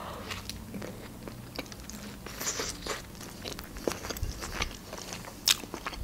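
Close-miked chewing of a mouthful of hot dog with lettuce in a soft bun: soft crunching and small wet mouth clicks, with one sharper crackle about five and a half seconds in.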